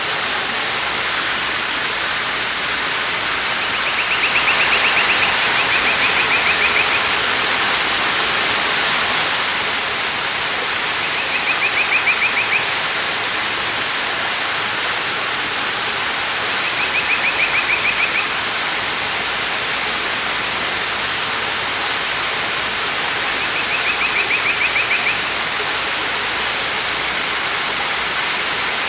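Waterfall rushing steadily. A short, rapid, high trill cuts through it about every six seconds.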